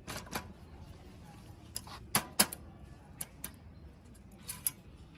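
Irregular sharp clicks and knocks of hand work on a rusty bicycle's parts, about ten in all, the loudest two close together about two seconds in.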